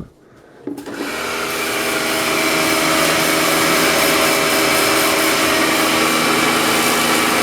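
Kärcher pressure washer starting about a second in, building up over a second or two, then running steadily with an even motor hum.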